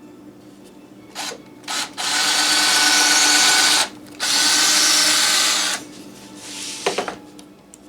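Power drill run in bursts: two quick blips, then two sustained runs of about two seconds and a second and a half with a short pause between, and a brief blip near the end.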